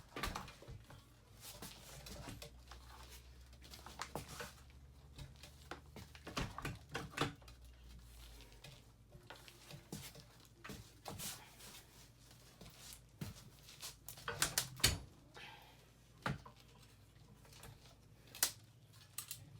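Scattered clicks, taps and knocks of hands and tools working on a Yamaha YZ250F dirt bike's frame and engine during disassembly, with a cluster of louder knocks about fifteen seconds in.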